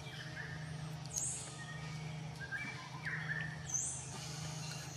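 Birds calling in the forest. A high call sweeps sharply upward and holds, twice, about two and a half seconds apart, with shorter, lower whistles in between, over a steady low hum.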